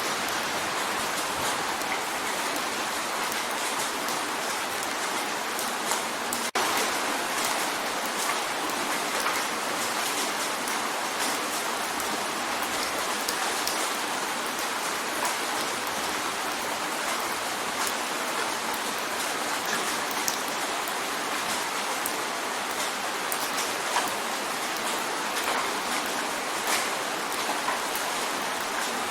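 Steady rain drumming on a window pane: a dense hiss of falling water, full of small sharp drop ticks. There is a momentary dropout about six and a half seconds in.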